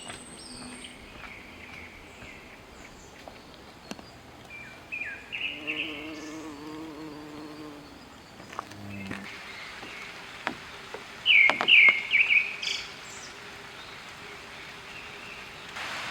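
Forest birds calling in short chirping phrases, twice: about five seconds in, and louder about eleven seconds in. A flying insect buzzes past about five to seven seconds in, with a few faint knocks.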